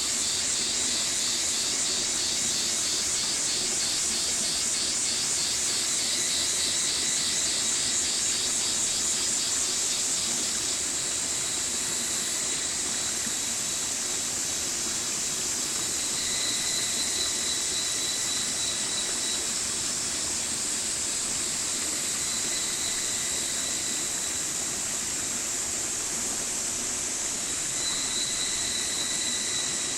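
Mountain stream running steadily over rocks, a dense bright rush of water. A high, pulsing trill rises over it in the first several seconds and comes back briefly twice later.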